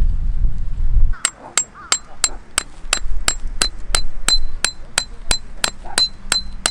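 Wind buffeting the microphone, then a hammer striking a metal tent stake in a steady rhythm of about three blows a second, each blow ringing.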